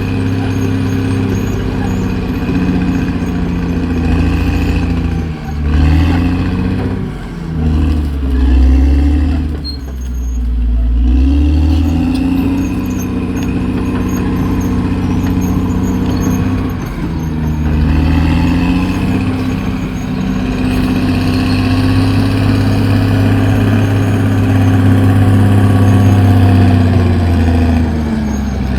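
Caterpillar D6R XL bulldozer's diesel engine running loud, its engine note sagging and climbing back up several times.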